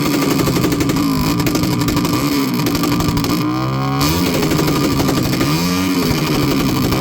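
Motorcycle engine revving, its pitch repeatedly dropping and climbing again every second or two.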